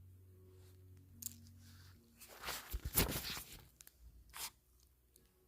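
A cat purring close by, a steady low rumble that stops about two seconds in. Then comes about a second of crunching, rustling noise, the loudest part, and a short scrape a little later.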